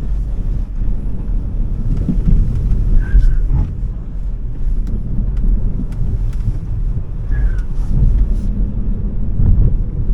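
Smart #3 electric car driven hard: a steady low rumble of tyre and road noise, with two short high chirps, about three seconds in and again about seven and a half seconds in.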